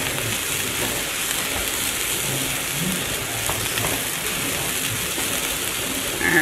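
Cauliflower rice and broccoli frying with a steady sizzle in a non-stick pan, stirred with a plastic spatula that scrapes faintly a few times.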